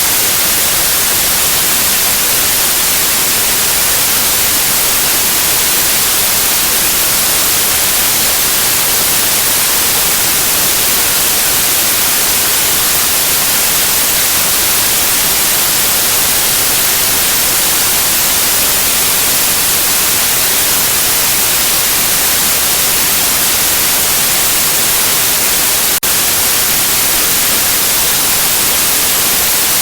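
Steady synthetic white noise, an even hiss heaviest in the high frequencies, used as a sleep aid for babies. There is one brief faint click near the end.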